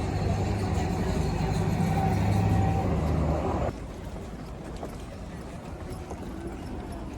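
A steady low engine hum that cuts off abruptly about three and a half seconds in. After it comes a quieter outdoor background with faint, scattered light clicks and knocks.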